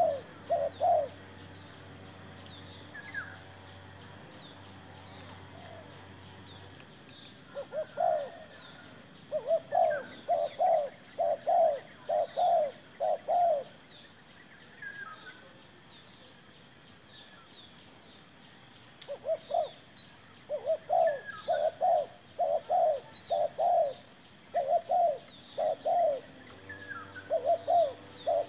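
Spotted dove cooing in long runs of evenly repeated low notes, two main series with a pause between, while small birds chirp faintly and a steady high insect-like drone continues.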